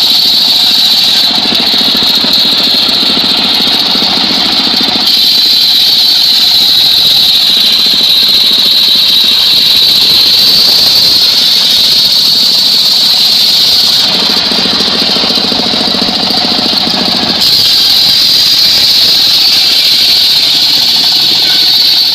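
Mobile circular sawmill cutting mahogany: the blade gives a loud, steady high-pitched whine over its engine. The sound turns deeper and rougher twice, from about one to five seconds in and again from about fourteen to seventeen seconds.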